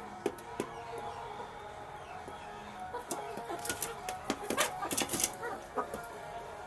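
Domestic chickens, a rooster and hens, clucking while they eat, with a flurry of sharp pecking taps at the food about three and a half to five and a half seconds in.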